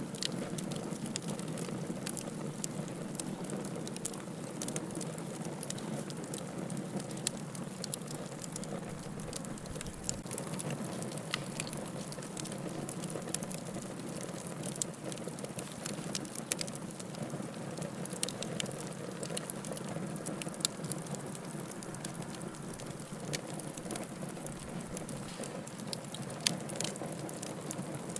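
Wood fire crackling in a fireplace: a steady low hiss of burning logs with irregular sharp pops and snaps, a few louder ones now and then.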